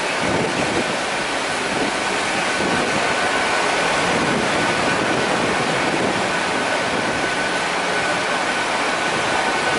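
GWR Class 800 IEP train running slowly past with a steady rumble and rush of noise. A thin, steady high whine joins in about three seconds in.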